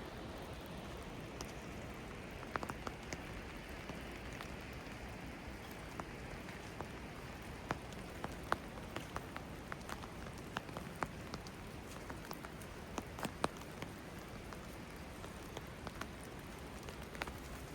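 Steady rain, with individual drops landing close by as scattered, irregular sharp ticks.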